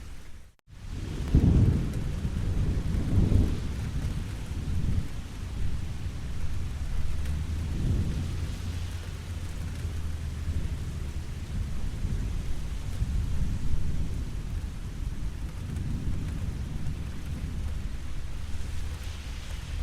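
Steady rainfall with low, rolling rumbles of thunder swelling and fading several times, the loudest just after the start. The sound cuts out for an instant about half a second in.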